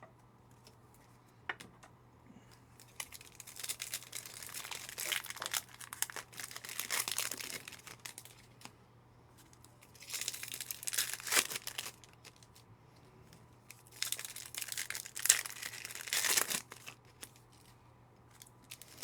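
Foil trading-card packs being torn open and crinkled in three spells of crackling rustle with short pauses between, a stubborn pack that does not want to open.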